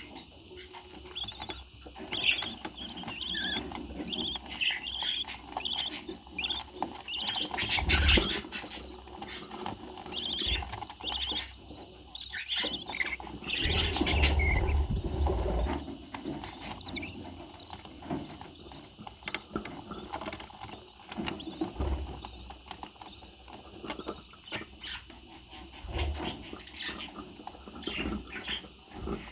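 A pet parrot chirping and whistling in many short calls, with a few knocks and bumps about a third and halfway through.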